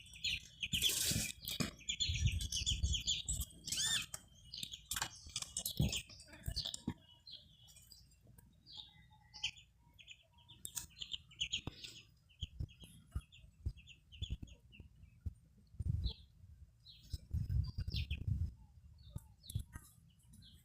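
Small birds chirping: many short, high chirps repeated in quick runs, busiest in the first few seconds, with a few dull low rumbles in between.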